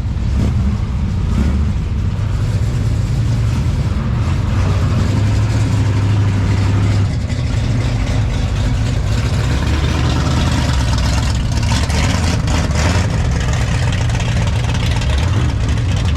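A car engine running, a steady low rumble whose pitch drops about seven seconds in.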